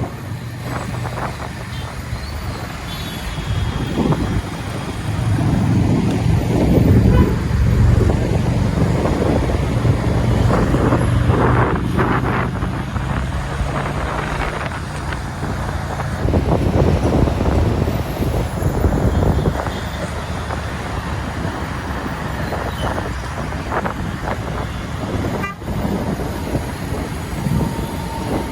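Motorbike riding in highway traffic: a steady engine and road noise, with other vehicles passing and horns sounding now and then.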